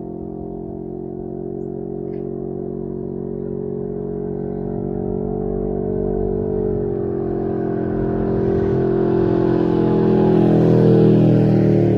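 Can-Am Ryker 600's twin-cylinder engine running through its exhaust, growing steadily louder with its pitch shifting, loudest near the end, as the trike comes closer or picks up speed.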